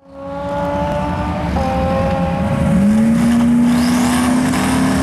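Twin-turbo Coyote 5.0 V8 race car running hard down the drag strip. Its engine note holds, steps about a second and a half in, then climbs around the middle and holds steady. A thin high whine glides upward near the end.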